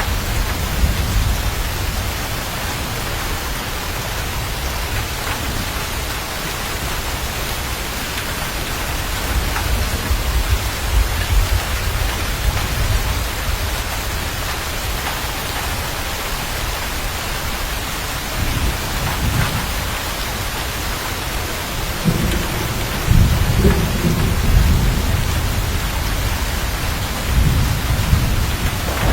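Steady heavy rain with rolling thunder rumbling underneath, the thunder swelling most strongly about two-thirds of the way through and again near the end.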